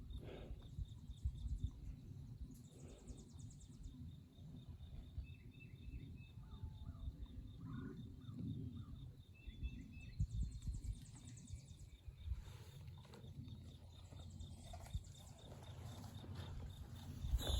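Pasture ambience: birds chirping now and then over a steady faint ticking, with a low rumble and irregular soft thumps throughout.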